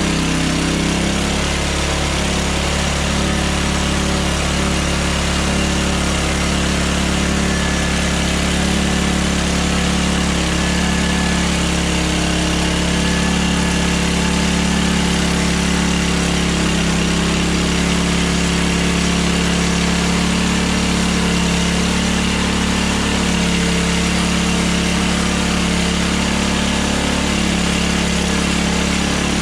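Hudson Hunter band sawmill's engine running steadily at a constant speed.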